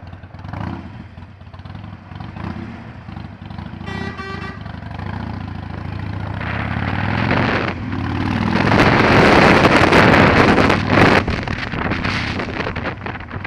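Harley-Davidson Iron 883's air-cooled V-twin engine running low, with a short horn toot about four seconds in. From about six seconds the engine revs up as the bike accelerates, and loud wind noise on the microphone builds with speed.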